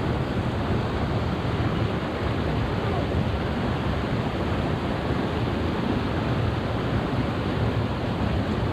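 Rain-swollen creek rushing steadily over rocks in flood.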